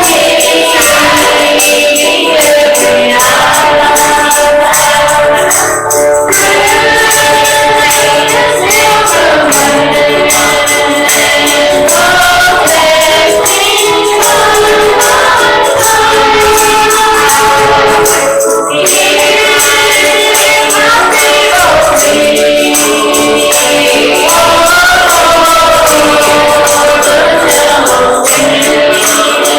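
Gospel singing by a church choir or congregation, with a tambourine jingling in steady rhythm.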